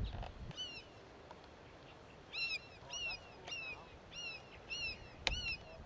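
A bird calling a quick series of short, arched notes, about two a second, with one knock near the end.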